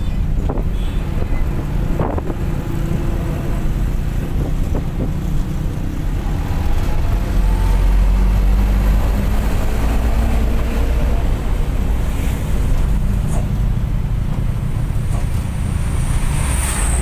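Bus under way: a steady low engine drone mixed with road and wind noise, getting a little louder about seven seconds in.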